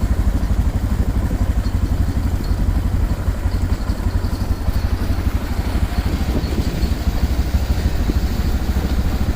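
Motorcycle engine running steadily while the bike rides along.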